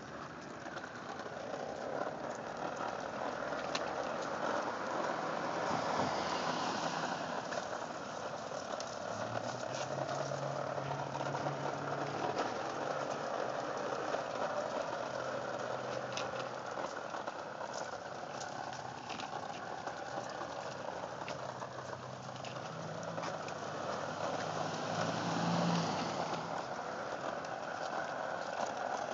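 Small wheels rolling and rattling steadily over a concrete sidewalk, with scattered clicks. A low engine hum comes in twice, in the middle and again near the end.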